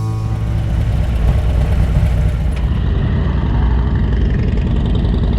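Harley-Davidson V-twin motorcycle engine running steadily at road speed, with wind rushing over the microphone.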